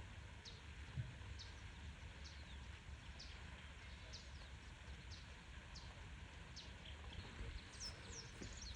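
A small bird calling faintly: short, high, downward-sliding chirps about one to two a second, coming more thickly near the end, over a low steady rumble of outdoor background noise.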